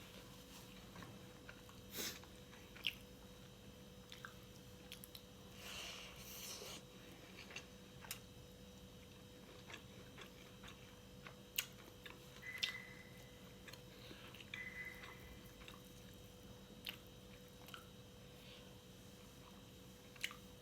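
Close-up, quiet chewing with scattered lip smacks and mouth clicks, a longer crunchy, squishy stretch about six seconds in. A faint steady hum runs underneath.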